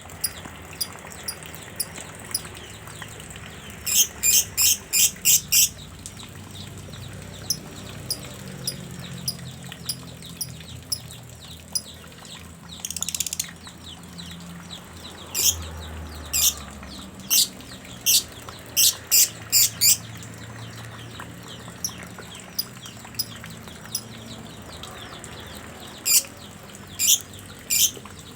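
A songbird calling in quick runs of short, sharp, very high chirps, about half a dozen at a time, with one harsh rasping call about halfway through.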